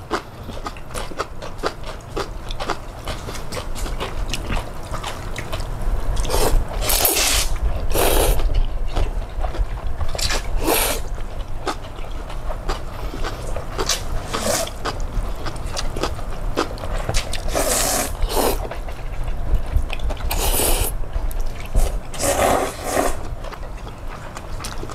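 Eating sounds of cold bean-soup noodles: several short, loud slurps of noodles and broth, with wet chewing and small clicks in between.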